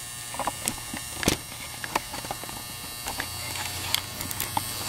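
A steady electrical hum with scattered small clicks and taps of metal parts being handled.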